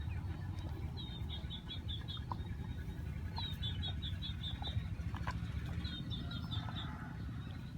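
A small bird singing three short phrases, each a quick run of five or six chirps, over a steady low rumble. Now and then there are faint clicks from dogs gnawing a cow bone.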